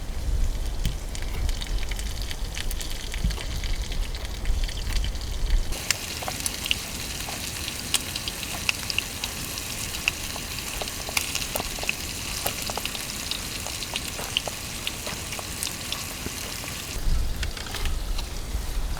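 Food sizzling and frying in a pan, with many sharp crackling pops. For the first few seconds and again near the end, a low rumble takes over and the sizzle drops back.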